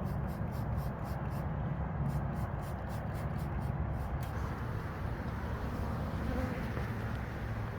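Hand spray bottle squirting sugar syrup in rapid short hisses, about three a second, stopping about four seconds in, over a steady low rumble.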